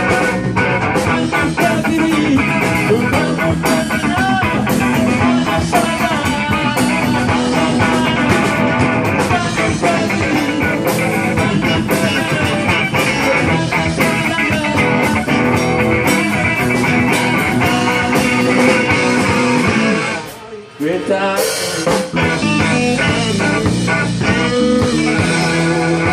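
Blues-rock band playing an instrumental passage with guitar and a full rhythm section. The music briefly drops away about twenty seconds in, then comes back.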